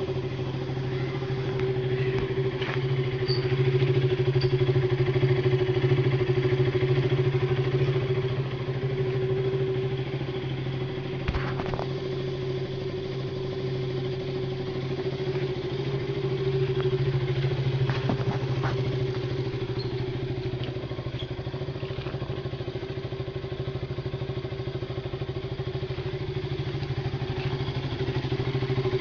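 KTM RC 200's single-cylinder four-stroke engine idling steadily through its stock exhaust, the note swelling slightly louder a couple of times. A few light knocks are heard around the middle.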